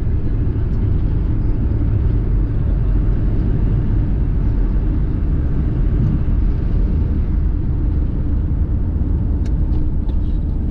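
Car driving on the road: a steady low rumble of engine and road noise, with a few light ticks near the end.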